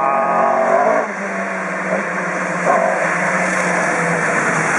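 Rally car engine revving hard at high revs, then dropping in pitch about a second in and running on with a steadier, lower note.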